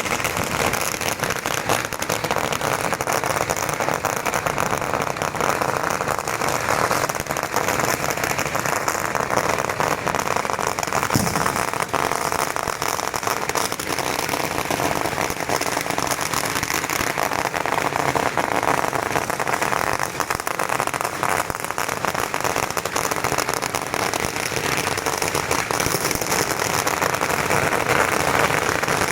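Continuous dense crackling and popping of firecrackers, with one short low thud about eleven seconds in.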